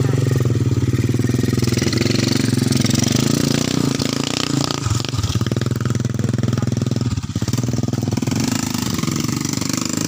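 Small dirt bike engine running with a fast, steady putter, briefly dipping in level about seven seconds in.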